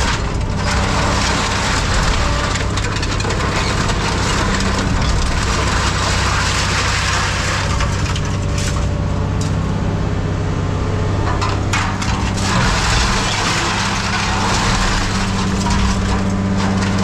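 Heavy scrap-handling machine's engine running steadily under a continuous crunching and cracking of scrap being grabbed and crushed, with sharp cracks throughout.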